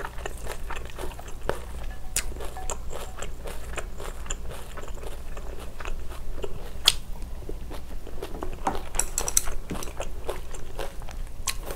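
Close-miked eating sounds of a mouthful of spicy cold noodles with young-radish (yeolmu) kimchi being chewed: wet, crunchy chewing with many small clicks and smacks, one sharper click about seven seconds in.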